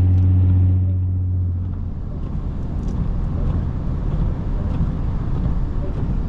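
Lexus IS250's V6 engine running under steady throttle with a low drone, which eases off about a second in. What remains is a rougher rumble of tyres and road noise.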